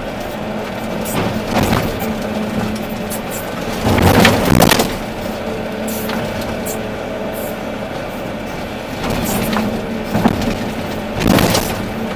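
Volvo EC380D excavator's diesel engine running steadily under hydraulic load, with a loud crunching, scraping burst of earth and rock about four seconds in and another shorter one near the end as the bucket works material.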